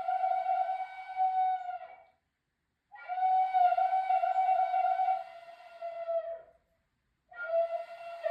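A flute playing long held notes on nearly one pitch, in phrases broken by two short breath pauses, about two seconds in and again near six and a half seconds in; the second phrase slides down slightly as it ends.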